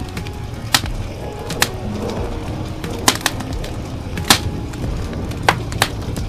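Wood fire in a fireplace crackling, with sharp irregular pops about once a second over a steady hiss of rain.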